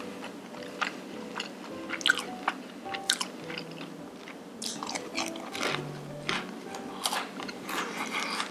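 Close-miked chewing with crisp crackling crunches, the sound of biting into and chewing battered, deep-fried sweet-and-sour pork; the crunching grows denser about halfway through. Soft background music with short held notes plays underneath.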